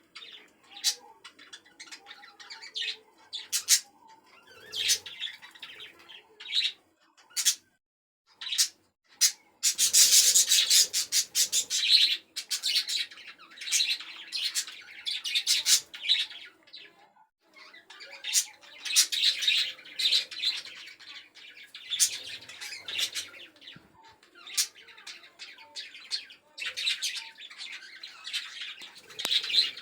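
A flock of budgerigars chirping and chattering: scattered short chirps at first, then bouts of dense, overlapping chatter starting about ten seconds in and again around twenty seconds.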